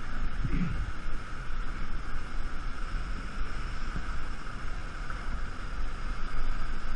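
Fast-flowing water of a waterfall rushing steadily close by, with a heavy, buffeting low rumble on the microphone.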